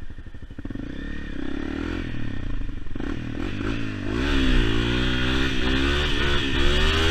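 Honda CRF250L's single-cylinder four-stroke engine running at low revs while riding, then revving up about four seconds in and rising and falling in pitch as the throttle is worked.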